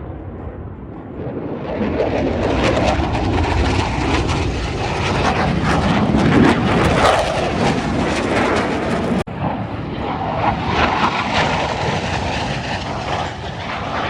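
Loud airplane engine noise from a display aircraft, a dense rushing sound that swells over the first couple of seconds. It breaks off for an instant about nine seconds in and picks up again.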